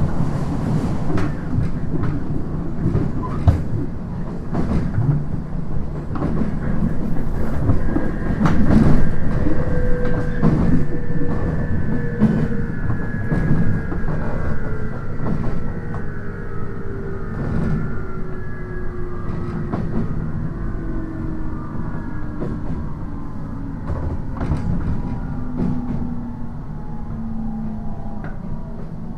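JR East 719 series electric train running, heard from inside the passenger car: low rumble with repeated wheel clicks over the rail joints. From about a third of the way in, the motor and gear whine falls steadily in pitch as the train slows.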